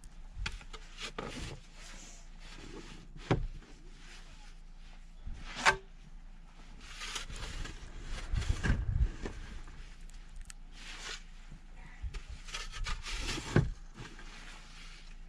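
Snow shovel working heavy snow off solar panels: irregular scraping and crunching strokes, with a few sharp knocks as the shovel strikes, the loudest about three, six and thirteen seconds in.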